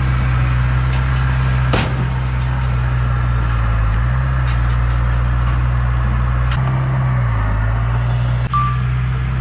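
Heavy diesel engine of earthmoving equipment running steadily at low speed, with its pitch dipping briefly twice. A sharp click sounds about two seconds in, and the sound breaks off abruptly for an instant near the end.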